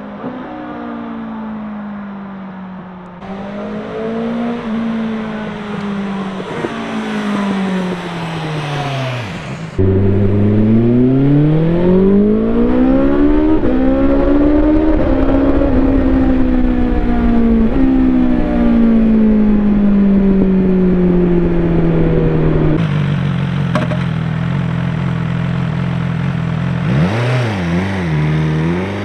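BMW S1000XR's inline-four engine through an Akrapovič exhaust, in several cut-together takes: first a falling engine note, then a louder stretch where the revs climb and drop, then steady running with quick throttle blips near the end.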